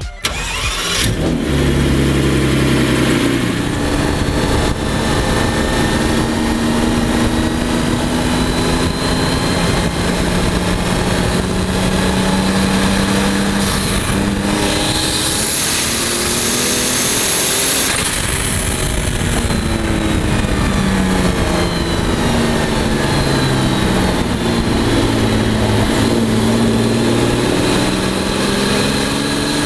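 Heavily modified Mercedes-Benz CL600 twin-turbo V12 under way, its engine note climbing and dropping repeatedly as it accelerates and eases off, with a thin turbo whistle above it. About halfway through, a loud hiss rises for a few seconds.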